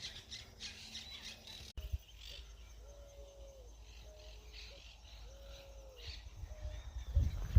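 Long, steady-pitched hooting calls, each just under a second, repeating about every two seconds with shorter, higher notes between, over faint high chirping of insects or birds.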